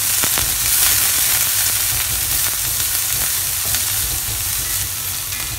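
Chopped onion, green chilli and curry leaves sizzling in hot coconut oil in a metal kadai, stirred steadily with a wooden spatula that scrapes the pan.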